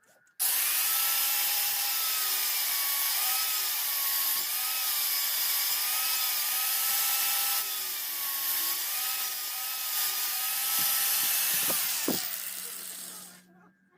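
Power grinder working the steel of a knife blade: a loud, hissing grind over a motor whine that wavers in pitch as the load changes. It starts suddenly about half a second in, then fades out and stops about a second before the end.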